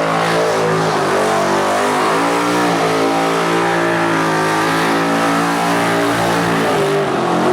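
A 1700-horsepower Ford Falcon XP burnout car's engine held at high revs, its pitch wavering up and down, over the screech of the rear tyres spinning in a burnout.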